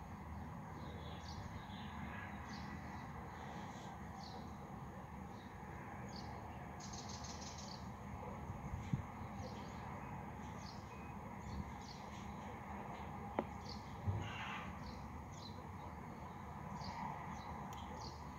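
Small birds chirping at dawn, short high notes repeating about once a second, over a steady low background rumble. A few faint knocks come in the middle.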